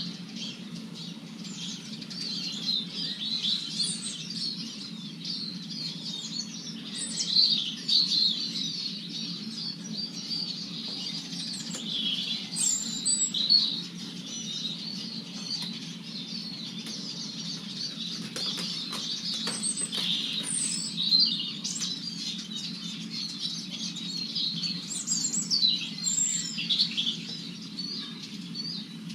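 Eurasian siskins twittering and chattering continuously in a busy flock at a feeder, a dense run of high chirps, with a few sharp clicks about two-thirds of the way through.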